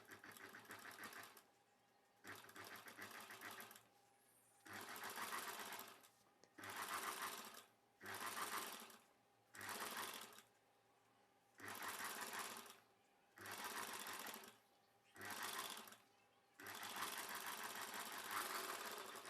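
Sewing machine stitching in about ten short runs of one to two seconds each, stopping briefly between runs, as thread piping is sewn onto a blouse front piece.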